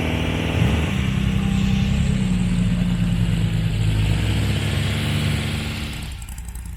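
Classic Ferrari's engine running as the car rolls slowly past, with a short blip of revs about a second in. It fades away near the end.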